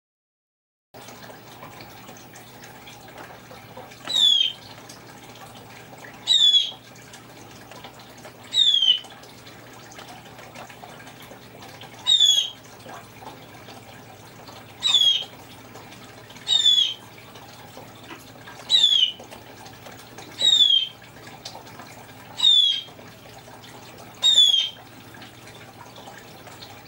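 Congo African grey parrot mimicking a blue jay's call: ten short, loud, downward-sliding calls, about one every two seconds.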